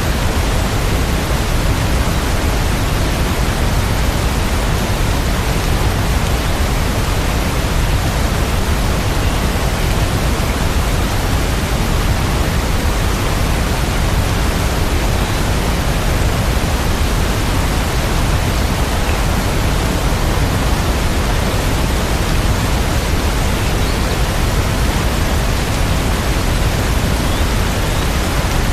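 Steady rain sound: an even, unbroken hiss weighted toward the low end, with no separate drops or thunder standing out.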